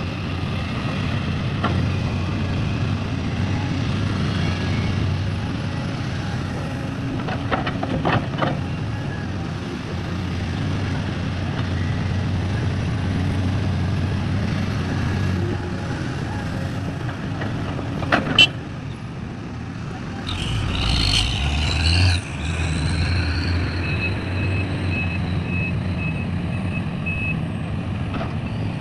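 Heavy diesel engines of an excavator and a dump truck running steadily, with metal clanks from the excavator, one loud one past the middle. Near the end there is a loud burst of hiss and engine noise, then a reversing alarm beeping about twice a second.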